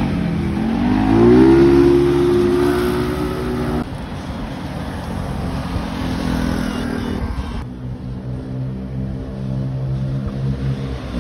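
Motorcycle engine revving up, its pitch rising over the first second or so and then held steady. The engine sound changes abruptly about four seconds in and again near eight seconds to other steady engine notes.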